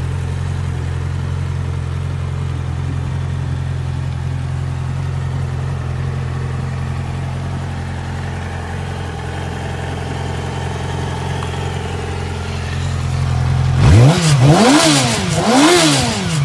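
Yamaha YZF-R6 (2009) inline-four sport-bike engine idling steadily, then blipped hard twice near the end, the revs shooting up and dropping back.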